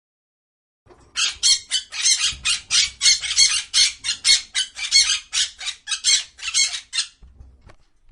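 Parrot squawking: a rapid run of harsh, screechy calls, about three or four a second, for some six seconds.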